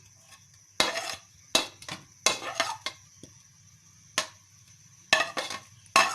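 Metal utensil clanking and scraping against a frying pan as sliced onions go into hot oil and are stirred: a sharp clank about once a second, some in quick pairs, with quiet between.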